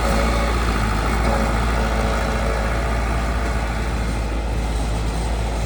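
Heavy diesel construction machinery running steadily at a constant, even engine note.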